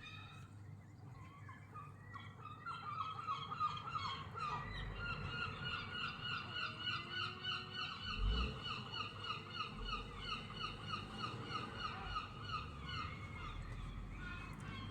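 Seagulls calling in a long, fast run of short repeated notes, several a second, starting about two seconds in.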